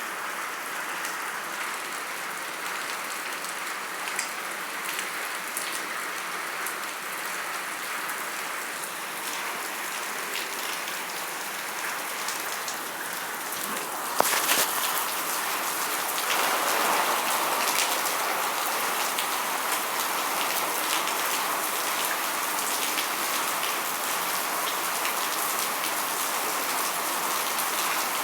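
Steady rain falling, with many small drop ticks. About halfway through there is a sharp click, and the rain then gets louder and heavier.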